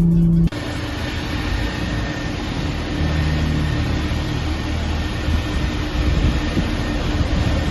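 Steady rushing road and engine noise of a car being driven, with a faint low hum underneath.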